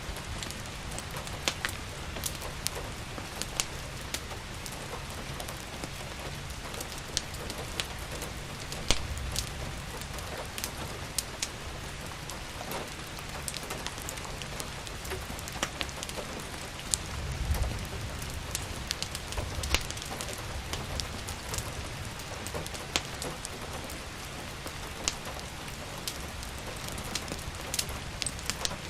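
Steady rain with scattered sharp crackles and pops from a wood fire in a fireplace, and a low rumble that swells briefly a little past halfway.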